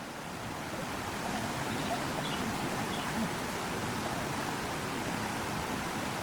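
Steady rushing noise, swelling slightly over the first second, with a few faint high chirps.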